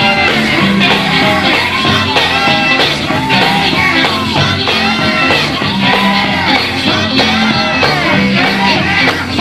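Live gospel group singing a song with band accompaniment, the sung melody gliding over a steady backing.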